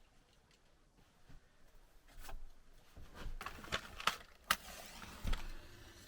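A quiet stretch, then a run of irregular knocks, clicks and rustling, like things being handled and set down. Two sharp clicks come close together in the middle, and a dull thump follows near the end.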